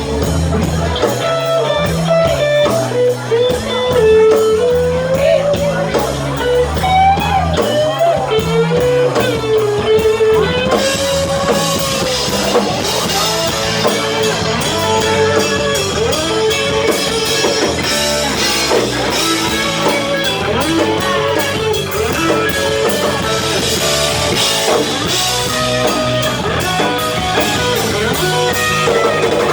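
Blues-rock band playing an instrumental passage: a lead guitar line with bent notes over bass and drum kit, the cymbals getting busier about eleven seconds in.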